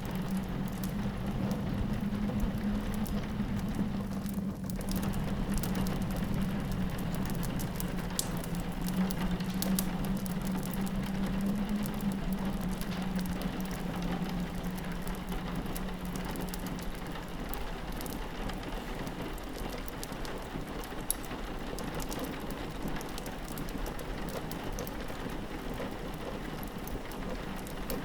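Rain pattering on a window mixed with a crackling fireplace, sharp little pops scattered throughout. A low steady drone runs underneath and fades out a little past the middle.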